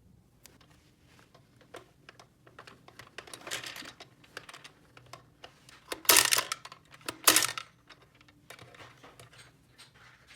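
Small hard plastic toy pieces clicking and clattering as they are handled, with two louder rattling bursts about six and seven seconds in.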